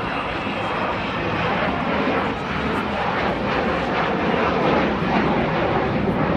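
Avro Vulcan bomber's four Olympus jet engines running as it flies past, a broad jet noise that slowly grows louder.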